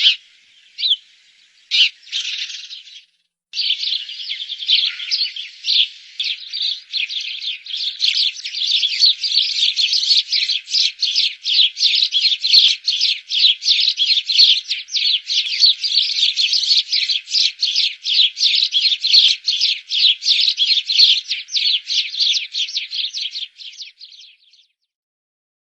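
A flock of sparrows chirping. At first a few separate chirps, then from a few seconds in a dense, rapid, overlapping chirping that cuts off suddenly near the end.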